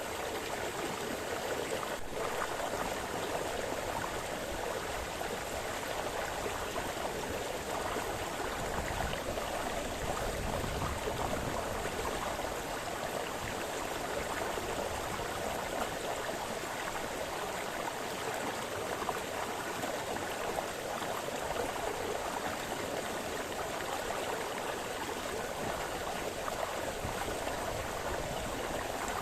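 A small brook splashing and burbling over stones, a steady continuous rush of water.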